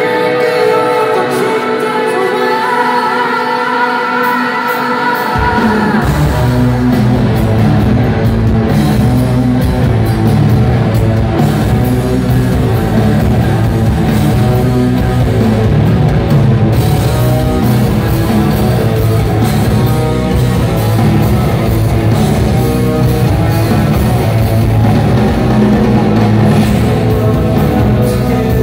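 Live rock band played through a concert hall PA: electric guitar alone at first, then bass and drums come in heavily about five seconds in, with a singer over the full band.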